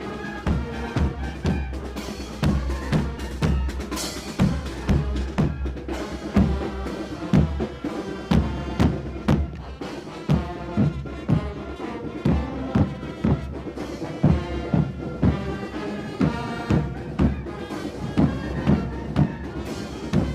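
Military marching band playing a march: wind instruments carry the tune over a steady bass drum and snare beat of about two strokes a second.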